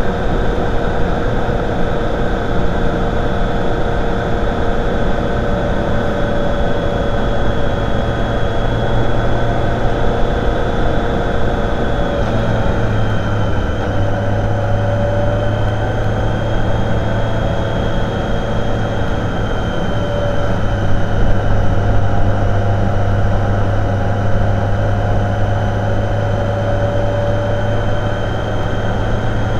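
Motorcycle riding at a steady pace: the engine running under a loud rush of wind noise, its note shifting slightly about twelve seconds in.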